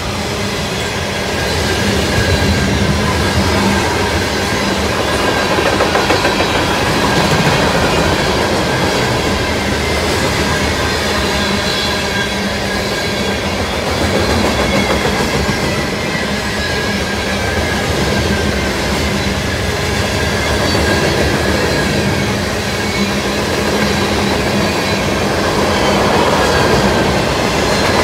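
Mixed freight cars (covered hoppers, tank cars and lumber flatcars) rolling steadily past on the rails: a continuous loud rumble with the clickety-clack of wheels over rail joints and faint high wheel squeal.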